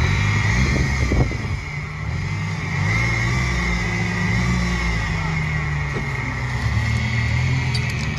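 Car engine running under load at raised revs, the pitch rising and falling a little, with a steady high-pitched whine over it. There are a couple of knocks about a second in.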